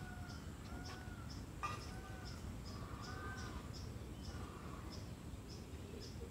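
Birds calling: a few short arched calls in the first four seconds over a steady run of short high chirps, about three a second, from a small bird. A single sharp knock sounds about a second and a half in.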